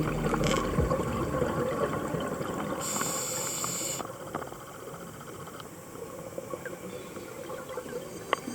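Underwater ambience picked up by a diver's camera: a crackling, hissing noise. A brief louder hiss comes about three seconds in, and the noise is quieter after it.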